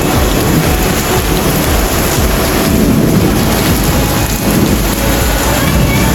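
Heavy rain in a nor'wester storm, a steady loud rush, with a low rumble of wind gusting over the microphone.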